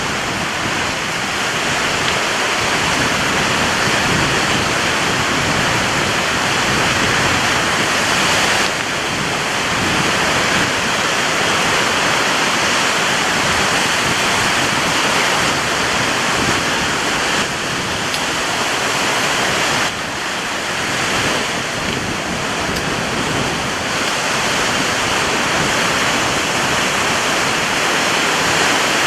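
Strong ocean surf breaking on a beach: a continuous dense roar of waves, with small dips in level about nine seconds in and again about twenty seconds in.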